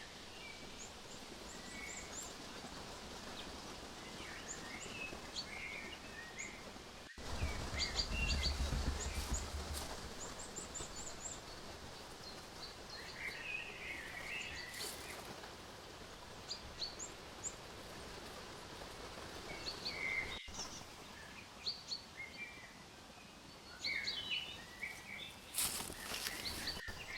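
Quiet forest ambience with small birds chirping on and off over a faint hiss. About a quarter of the way in there is a low rumble for a couple of seconds, and near the end a few sharp rustles.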